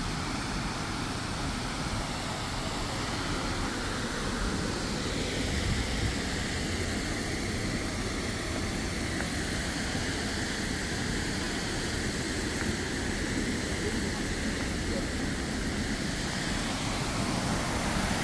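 Steady rushing roar of Tortum waterfall, an even noise with no breaks.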